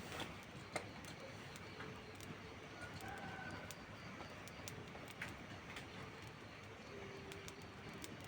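Steady hiss of rain with sharp pops and snaps of a crackling wood fire, the loudest a little under a second in. A bird calls faintly with a few low, level notes now and then.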